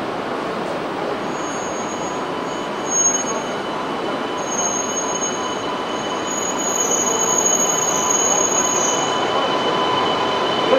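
E2 series Shinkansen train starting to pull away, its electrical equipment giving several steady whines over a running hum. The sound grows louder over the second half as the train gets moving.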